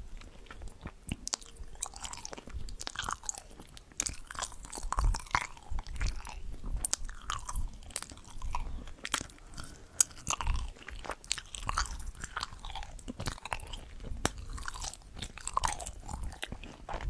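Close-miked ASMR eating sounds: a person biting and chewing food, with irregular clicks and crackles coming several times a second.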